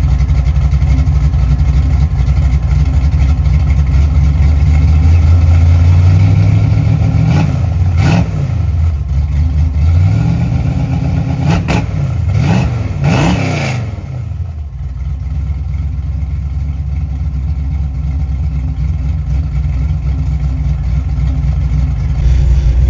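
LS V8 engine running, revved in a few quick blips around the middle, the pitch sweeping up and back down each time, then settling to a steady idle.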